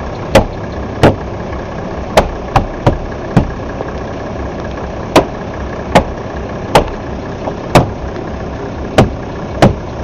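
Mercedes SDL turbo diesel engine idling steadily under about a dozen sharp knocks at uneven intervals, as a part that came off is banged back into place by hand.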